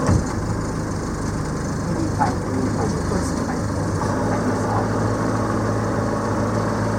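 Boat engine running steadily at low, idle-like speed, a steady low hum, with a brief knock right at the start.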